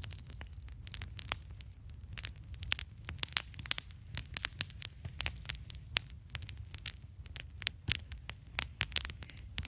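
Wood campfire crackling: many sharp, irregular pops and snaps over a low steady rumble.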